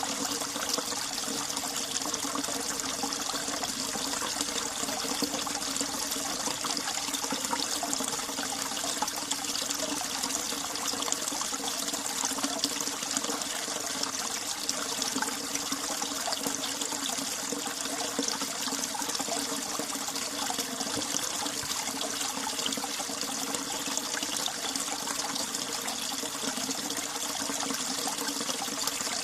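Mountain stream in winter running over rocks and ice with a steady, babbling trickle and splash.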